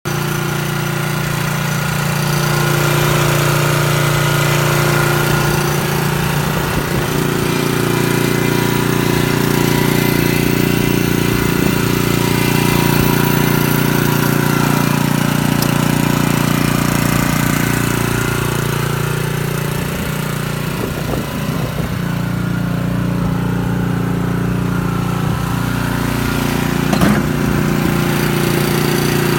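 Engine of a Chikusui Canycom BFP303 crawler carrier running steadily, dipping slightly about two-thirds of the way through. There is a short sharp click near the end.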